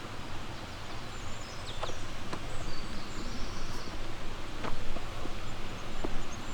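Steady rushing of a flowing river, with small birds chirping high above it through the middle and a few soft footsteps on the path.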